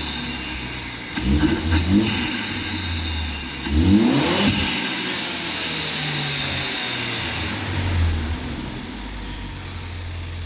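Ford Focus ST's turbocharged four-cylinder engine being revved through a Focus RS air box with a Green Filter: a few quick blips, one bigger rev about four seconds in, then settling back to a steady idle.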